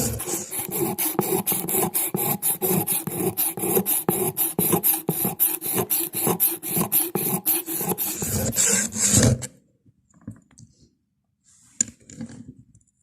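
Hand filing in quick, even back-and-forth strokes, several a second, on a knife being made from truck steel; the strokes stop suddenly about nine seconds in. A few faint knocks follow.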